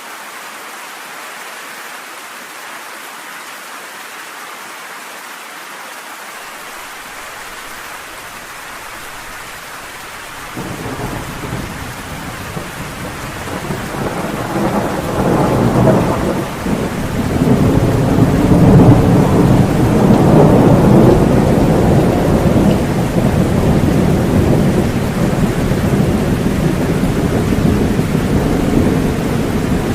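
Steady rain, joined about ten seconds in by a long roll of thunder that builds to its loudest about two-thirds of the way through and keeps rumbling to the end.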